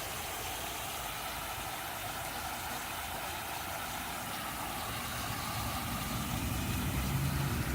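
Dandelion water fountain spraying and splashing steadily, with a low engine-like hum growing louder near the end.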